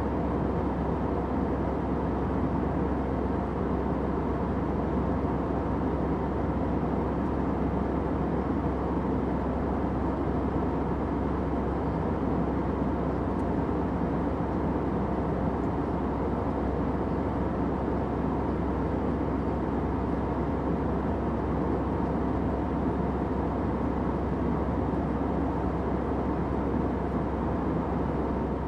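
Airplane cabin noise in flight: a steady, unchanging low drone.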